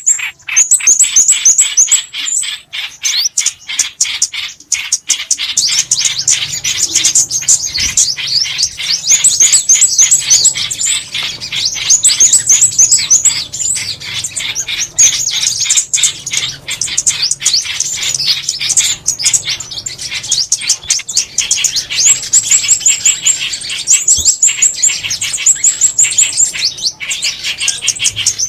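Bird-call lure recording of small songbirds, bulbuls and sunbirds: dense, rapid, high chirps and trills repeating without pause. A faint low hum joins about five seconds in.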